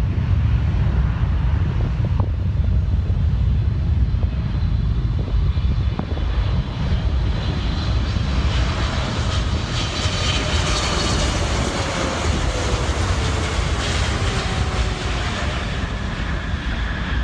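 Wide-body jet airliner passing low on approach to land, its engines running with a steady deep rumble and a hiss that swells midway. A whine slides down in pitch in the second half as the jet goes by.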